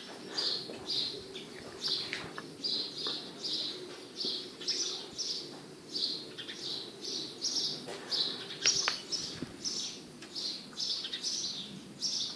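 A bird chirping over and over, about two short high chirps a second.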